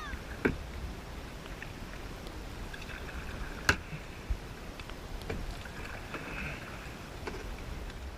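Kayak being paddled: water swishing and trickling around the paddle and hull, with a steady low rumble and two sharp knocks, one about half a second in and a louder one near the middle.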